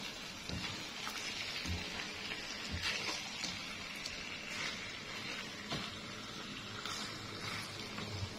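Ikan pe (smoked stingray) pieces sizzling in a wok as they are stir-fried with a spatula, a steady hiss with a few light clicks of the spatula against the pan.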